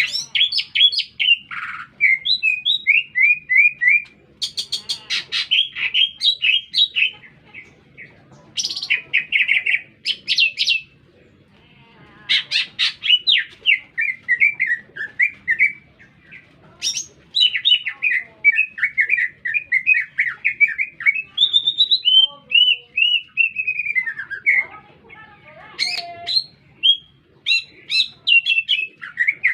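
Cucak ijo (green leafbird) singing loudly in long phrases of rapid, sliding chattering notes, broken by short pauses.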